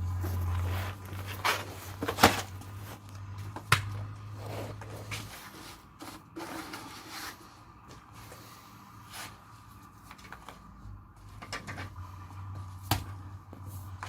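Irregular scrapes and sharp knocks of hand tools working a wet clay plaster coat on an adobe wall, with the loudest knocks about two and four seconds in and again near the end. A low steady hum drops away about five seconds in and comes back near the end.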